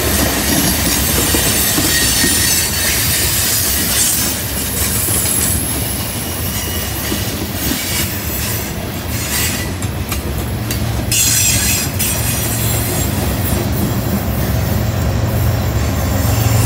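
Freight train of tank cars and boxcars rolling past on a curve, its steel wheel flanges squealing against the rail over the rumble and clickety-clack of the wheels. In the second half the low hum of the approaching mid-train distributed-power locomotive, a CN GE ES44AC diesel, grows louder.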